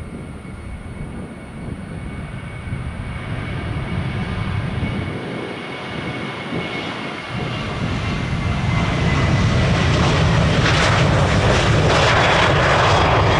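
Jet airliner on its takeoff run, its engine noise building steadily to a loud rumble with a high whine on top.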